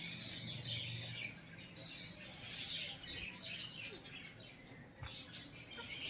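Small birds chirping, with many short, high calls overlapping.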